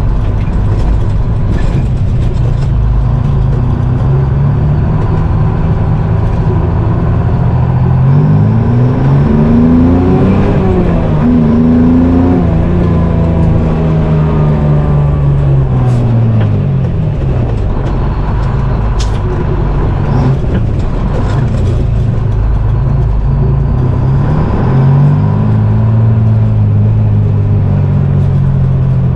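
Two-stroke Detroit Diesel engine of a GMC Crackerbox semi truck running under way. Its pitch climbs about 8 seconds in, drops away again, then climbs from about 20 seconds in and holds steady.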